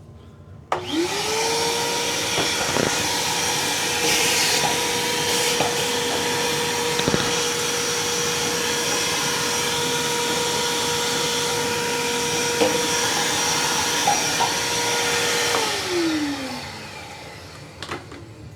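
Small high-speed electric power tool running at steady speed with a high whine and a few light scrapes and ticks, cleaning old gasket material off a metal sealing surface; near the end it is switched off and winds down, its pitch falling.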